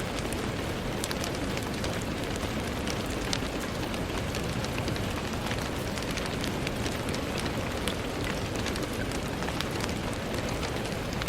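Steady rain falling on a window: an even hiss with many small, sharp drop ticks scattered through it.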